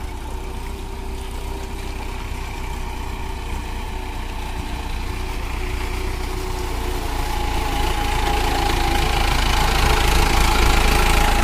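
Mahindra Arjun 555DI tractor's diesel engine running steadily, growing gradually louder.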